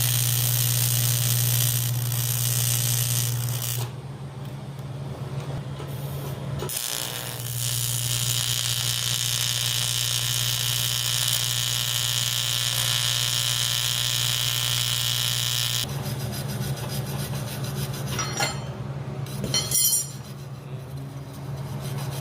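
TIG welding arc on cast aluminium buzzing steadily with a low hum under a hiss, easing off for a few seconds, then turning uneven with a few crackles near the end. Oil seeping up through the casting makes the weld difficult.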